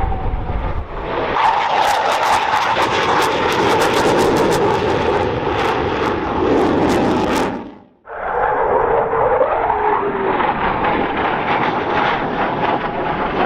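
Loud aircraft engine noise of a plane flying past. It cuts off abruptly about eight seconds in. A Eurofighter Typhoon's jet engines follow, their pitch falling as it passes.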